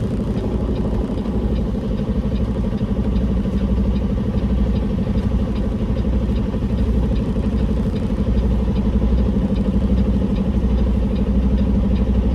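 Peterbilt semi truck's diesel engine running steadily at low revs, a fast even rumble, as the rig inches into position.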